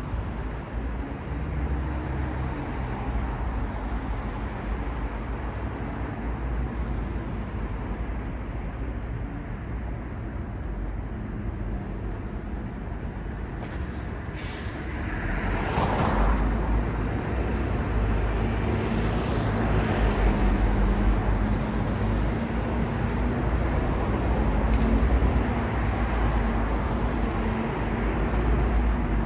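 City street traffic: a steady hum of passing vehicles and engines. A brief sharp hiss comes about halfway through, followed by a louder vehicle passing close by with a steady engine hum.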